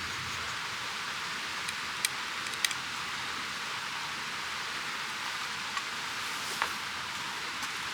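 Steady, even hissing noise with a few short sharp clicks, about two and a half seconds in and again near the end.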